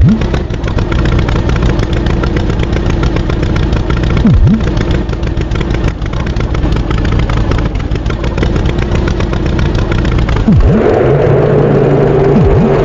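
Engine sound effect of a cartoon farm tractor running steadily. Short swooping sounds dip and rise in pitch about every four seconds, and about two-thirds of the way through the engine note changes to a higher, stronger tone.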